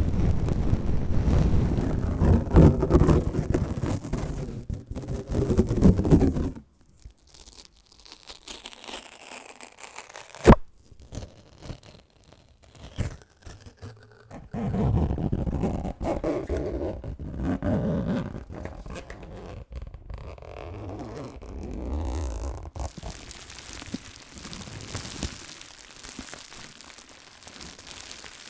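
A run of different close-miked ASMR trigger sounds, each lasting a few seconds and cutting abruptly to the next: a loud rumbling, rustling texture, then a quieter hiss with a single sharp tap, then another textured rustling sound and a soft hiss.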